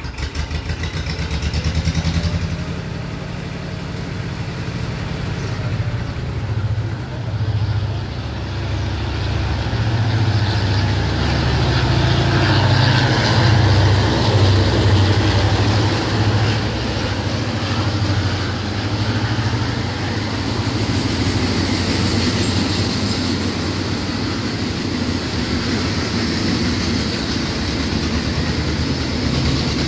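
Diesel-electric freight locomotive GEA 4554 running as it approaches and passes, its engine throb loudest near the middle, then a long train of oil tank wagons rolling by with a steady wheel-on-rail noise.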